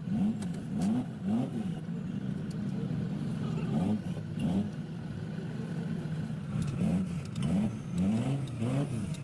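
An engine revved up and down over and over in quick, regular swings, with scattered metallic clicks and knocks.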